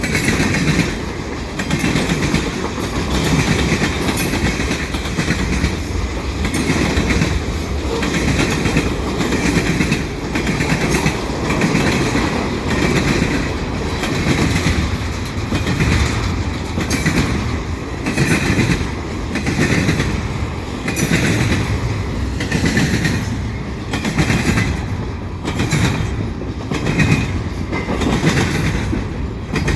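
Canadian Pacific freight train passing at speed: a steady loud rumble of the cars with a clattering rhythm that swells about once a second as the wheelsets cross the rail joints.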